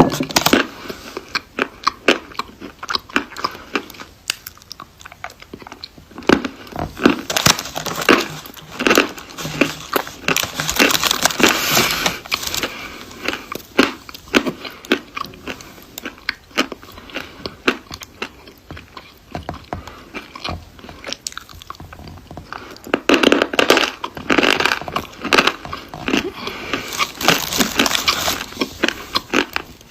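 Close-up biting and chewing of dry chalk and clay: many crisp crunches and crumbling crackles, packed densely in two runs, about a third of the way in and again near the end.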